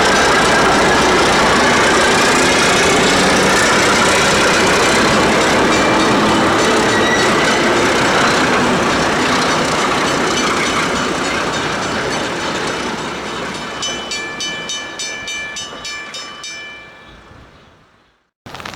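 Alco diesel locomotive and its train passing: loud engine and wheel noise that fades as the train moves away, turning to a rapid, even clickety-clack of wheels over rail joints with a thin steady squeal before it dies out.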